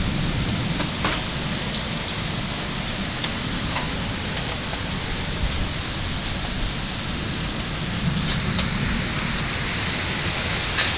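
Hail falling, a dense, steady hiss of hailstones striking, with a few louder single hits standing out now and then.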